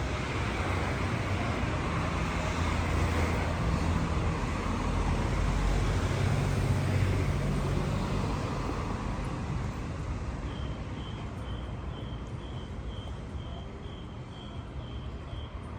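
City street traffic: a vehicle's engine hums close by and swells through the first half, then eases off. A faint, high beep repeats about twice a second in the second half.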